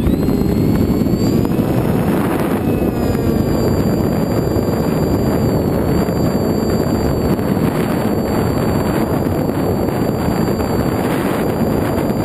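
Wind rushing over the microphone of a camera riding on an FX-61 flying wing, with the thin high whine of the plane's electric motor rising in pitch over the first couple of seconds, then holding steady.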